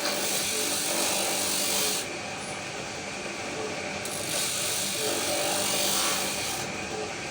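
Sanding of wooden bird-cage parts: two stretches of rasping, each about two seconds long, the second starting about four seconds in.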